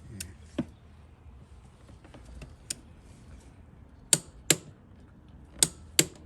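Click-type torque wrench on a long extension clicking over as it tightens a spark plug to its set torque: sharp clicks, mostly in pairs a fraction of a second apart, repeated several times.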